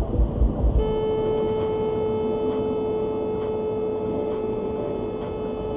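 A steady, single-pitched held tone, starting about a second in and cutting off sharply near the end, over faint ticking about once a second and background noise.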